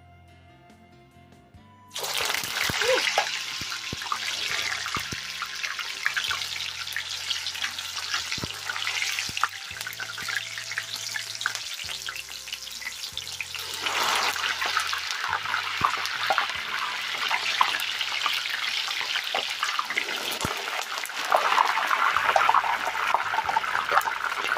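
Thin slices of unripe plantain frying in hot oil: a loud sizzle starts suddenly about two seconds in and keeps crackling, swelling again about halfway through and near the end.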